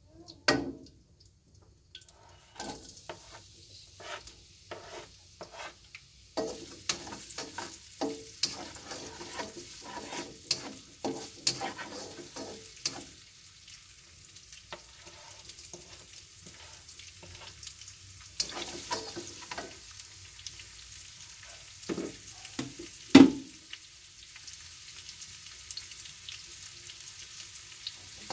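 Chopped shallots, garlic and chilies sizzling in hot oil in a nonstick wok, starting a couple of seconds in, while a spatula scrapes and taps against the pan to stir them. One loud knock about 23 seconds in.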